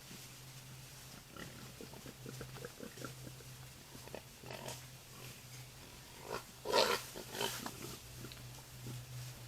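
Wild boar grunting, with many short scuffling sounds around it; the loudest grunts come about two-thirds of the way through.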